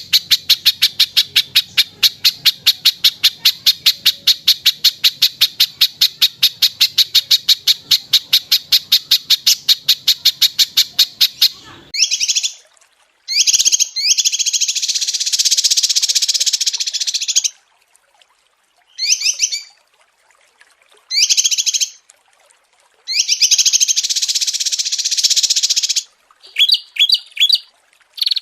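Songbird calls and song from a masteran recording. First comes a fast, even run of sharp high notes, about seven a second, for some twelve seconds. Then several bursts of rapid trilled song follow, one to four seconds each, separated by short pauses.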